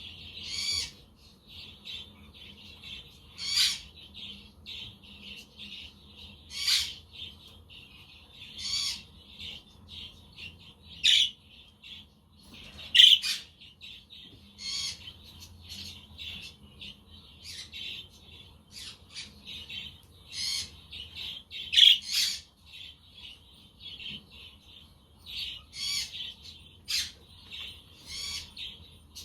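Budgerigars (budgies) chattering and warbling without a break, with loud, sharp squawks every two to three seconds.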